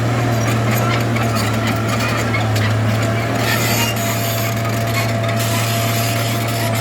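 Bulldozer running at a steady pitch, a constant low hum with a thin steady whine above it, and scraping and rattling over the top.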